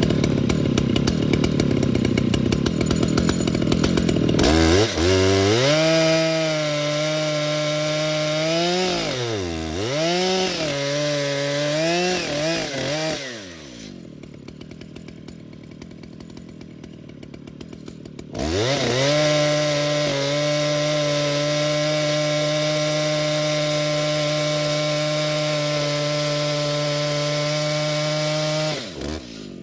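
Stihl MS 881 chainsaw cutting on an Alaskan chainsaw mill, its engine pitch wavering and dipping under load. It drops to a low idle about halfway through, then climbs back to a steady high run that falls off near the end.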